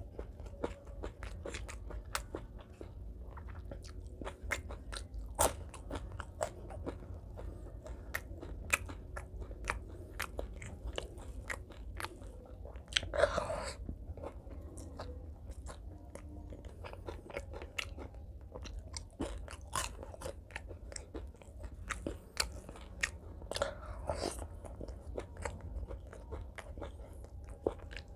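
Close-up chewing and crunching of a hand-fed mouthful of rice, fried fish and greens: a steady run of small, wet mouth clicks and crunches. A louder bite comes about halfway through, the loudest moment, and another comes near the end.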